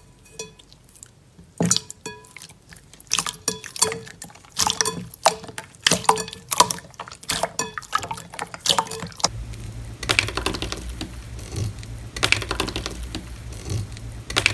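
Slime being squished and worked by hand, giving a run of separate wet pops and clicks. From about nine seconds in, it turns to a denser, steadier crackle.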